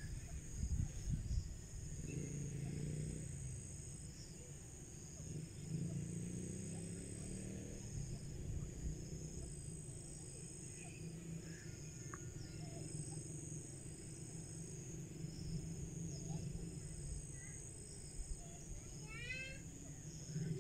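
Outdoor ambience of steady insect chirring, crickets or similar, over a low rumble. Near the end a bird gives a quick run of about five short notes.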